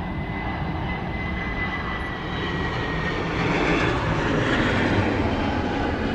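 Jet airliner passing low on its landing approach: steady engine roar with a thin high whine that drops slightly in pitch, growing loudest about four to five seconds in, then easing off.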